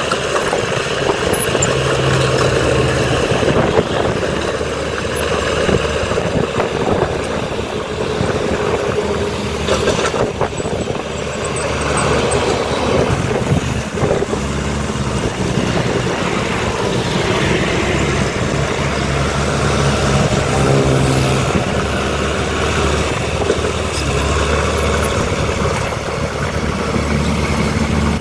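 Diesel engines of heavy earthmoving machinery running continuously, the engine note shifting in pitch now and then as the machines work.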